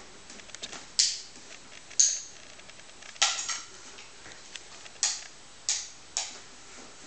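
A cat scrabbling at a cardboard box: six sharp, scratchy scrapes, roughly a second apart.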